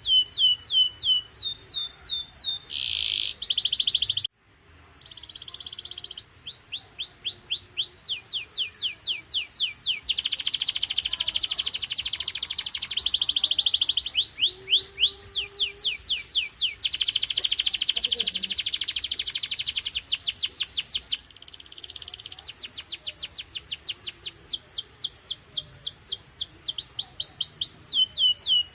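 Domestic canary singing: quick series of repeated, sharply falling high notes that change into dense, rapid trills (rolls), with a short break about four seconds in.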